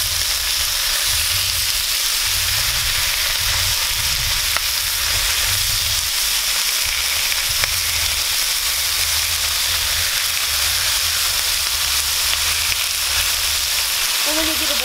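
Bacon strips and hash browns sizzling steadily on a hot Blackstone flat-top griddle, with a couple of faint pops and a low rumble underneath.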